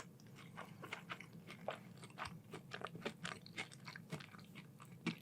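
Close-miked chewing of crispy food, soft irregular crunches and small mouth clicks, a few to several a second.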